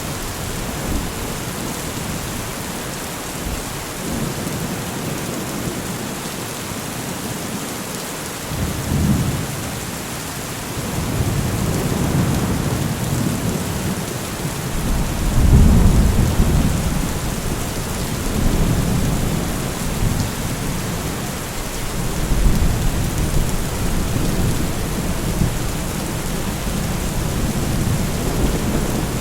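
Steady heavy rain hiss with rolling thunder: low rumbles swell about a third of the way in, build to the loudest peal around the middle, and keep rolling through the second half.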